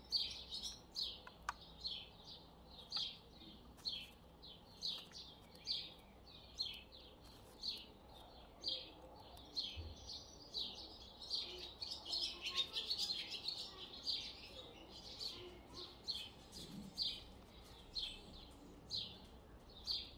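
Small bird chirping over and over, short falling chirps at about two a second.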